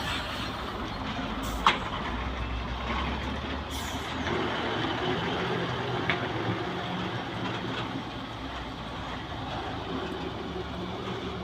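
Heavy diesel vehicle engine running steadily, with a sharp click about two seconds in and another about six seconds in.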